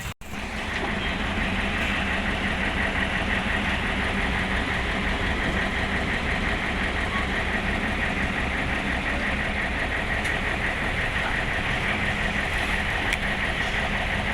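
Excavator's heavy diesel engine running steadily, with a steady high whine over the engine's low drone.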